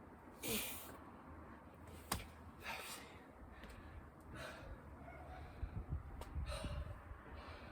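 A person breathing hard between exercise reps: loud, hissy exhales about every two seconds. There is a sharp click about two seconds in and some dull low thuds in the second half.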